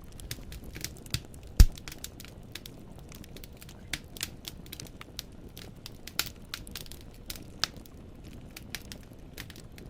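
Firewood burning in a fireplace, crackling with irregular sharp pops and snaps over a soft low rumble. One much louder pop comes about a second and a half in.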